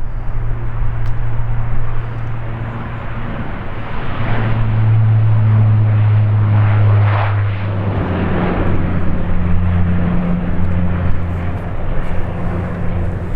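Dash 8-400 turboprop (twin Pratt & Whitney PW150A engines) at takeoff power: a loud, steady propeller drone with a low hum and rushing engine noise. The drone's pitch drops a little past halfway through, as when the aircraft moves past and away.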